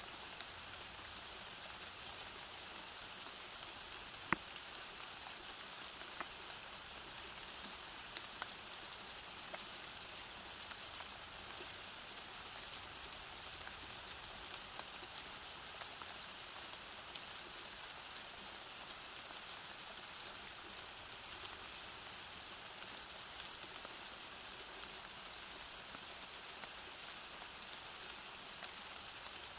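Steady rain falling: an even hiss with scattered sharper drop impacts, the loudest about four seconds in.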